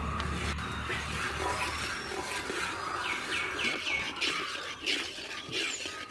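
A bird calling, with a quick run of about six falling chirps about three seconds in, over a steady background hiss.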